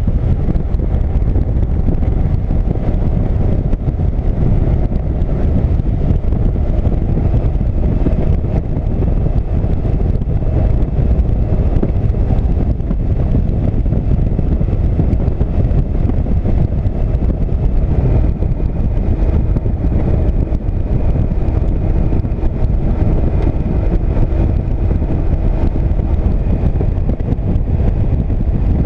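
A motorcycle on the move: steady rush of wind on the microphone over the engine's running noise, with no let-up.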